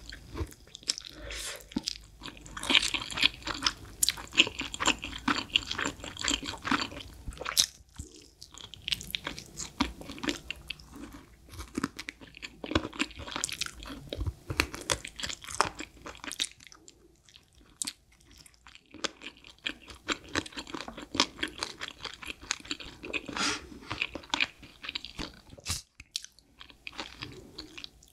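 Close-miked chewing and crunching of fried buffalo wings, the bites coming irregularly with short pauses.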